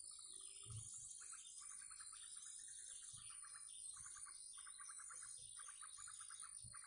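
Faint birdsong: a bird repeating a rapid trill phrase about once a second, with other small birds chirping higher up, over a thin steady high whine.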